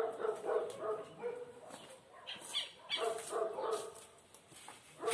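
A dog making a rapid series of short, pitched barking calls.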